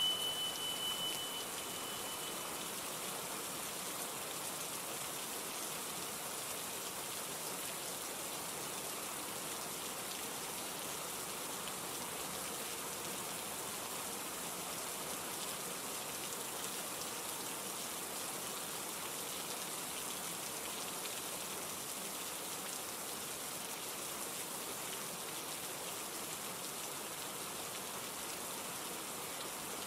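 Steady rain falling, an even hiss with no change throughout. A single high beep rings out and fades away in the first two seconds.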